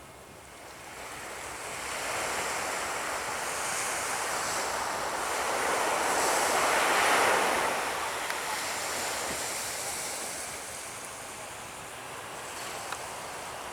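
A jet aircraft passing: a broad rushing engine noise that swells over several seconds, is loudest about seven seconds in, then slowly fades.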